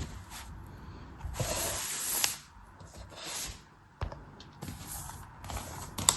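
A knife cutting and scraping through soft craft material in a series of hissing strokes: one long stroke lasting about a second starting about a second in, then several shorter ones, with sharp taps of the blade about four seconds in and near the end.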